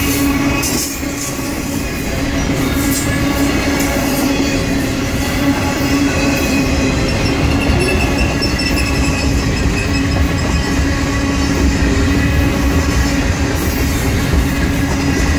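Freight train flatcars loaded with shipping containers rolling past at close range: a steady, loud rumble of steel wheels on rail with a continuous whining tone from the wheels.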